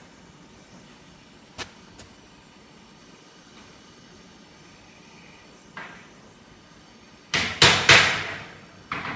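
A few sharp knocks: a single light tap early, then a cluster of louder knocks and clatters near the end, like tools or parts being handled on a workbench.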